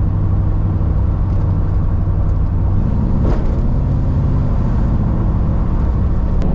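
Dodge Charger's engine and Porter-muffled exhaust heard from inside the cabin on a drive: a steady low drone that steps up in pitch about three seconds in.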